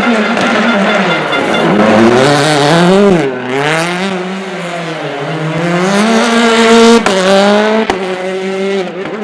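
High-performance car engine revving hard, its pitch climbing and falling several times as it accelerates and comes off the throttle. The pitch drops suddenly about three seconds in and again about seven seconds in, as at a gearshift.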